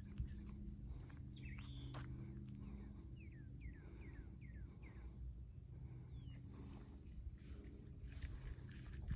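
A bird calling outdoors: a quick run of about five falling chirps a few seconds in, with a single higher chirp a little later. Underneath are a low steady rumble and faint scattered clicks.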